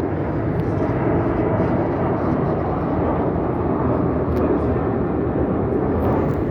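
Jet airliner engines, a loud, steady rumbling roar as the plane passes.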